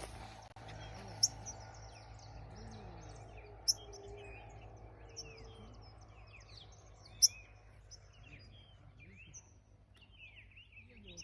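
Green chiviro (chiviro verde) singing in full moult: three loud, sharp high chirps about a second, four and seven seconds in, among many softer chirps and short warbled notes from other birds, over a steady low background hum.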